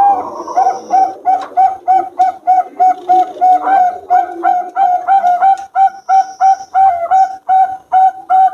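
Zebra doves of Bangkok contest stock (perkutut Bangkok) cooing: a fast, even run of short, clipped notes, about three or four a second.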